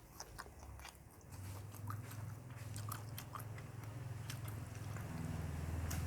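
A person chewing and biting food close to the microphone, with crisp crunches and many small sharp clicks. A steady low hum grows louder about a second in.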